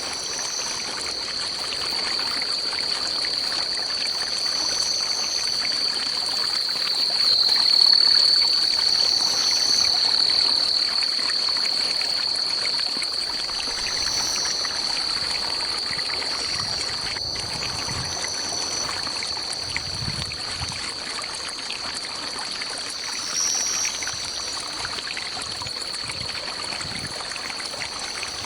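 Forest insects keep up a continuous, steady high-pitched drone, swelling a little about a third of the way in, with shorter, higher calls repeating every couple of seconds above it. Running water, as of a stream, lies underneath.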